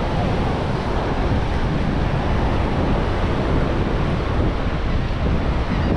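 Wind blowing across the microphone, with ocean surf washing in steadily behind it.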